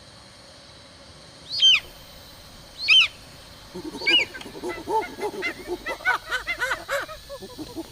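Wild birds calling: two loud, sharp high calls, then about four seconds in a rapid chattering chorus of many short calls begins and keeps going.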